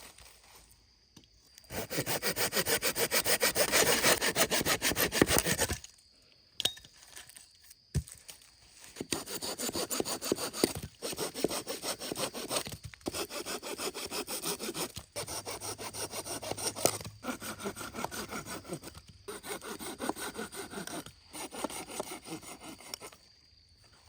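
Silky Gomboy folding hand saw cutting through firewood with quick, even back-and-forth strokes. One long bout comes first, then after a pause several shorter bouts, each broken by a brief stop.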